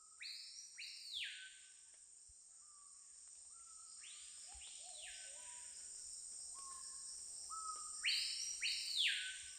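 A bird giving a two-note call three times, about four seconds apart, each note sweeping up high and sliding back down, the last pair the loudest. Under it runs a steady high-pitched insect drone of rainforest ambience.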